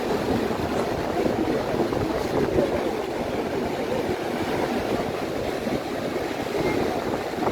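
Atlantic surf washing on a sandy beach: a steady rushing of waves.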